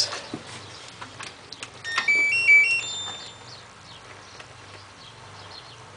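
LG F1222TD washing machine's control panel playing a short electronic melody of several stepped beeps about two seconds in, after a few faint clicks.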